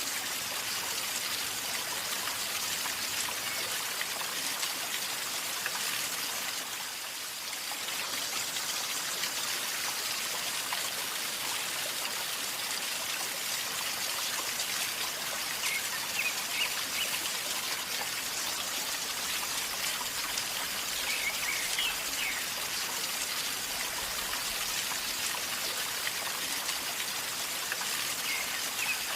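River water flowing and gurgling: a steady, even rush of water.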